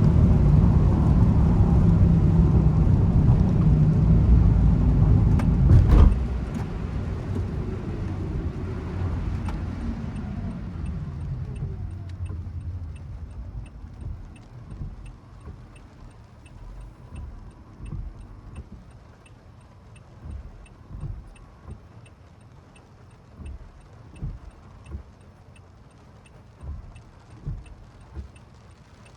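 Car interior noise while driving: steady low engine and tyre noise, with a sharp knock about six seconds in. The car then slows, and the engine and road noise fall away over several seconds. With the car stopped it is quiet apart from soft irregular low thumps and a faint regular ticking about twice a second.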